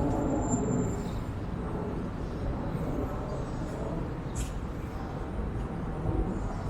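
Steady low rumble of city traffic, with a faint click about four and a half seconds in.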